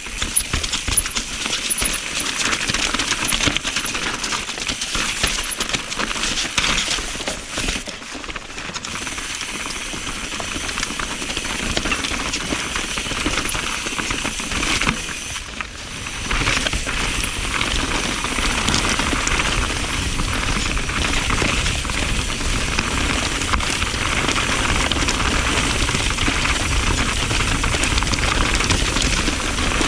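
Mountain bike ridden along a wet dirt trail: tyres rolling over wet ground and roots, with the chain and frame rattling over bumps. A steady noisy rush full of small clicks, easing briefly about eight and fifteen seconds in.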